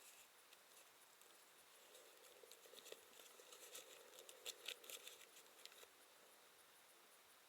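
Near silence, with faint scattered clicks and rustling between about two and six seconds in.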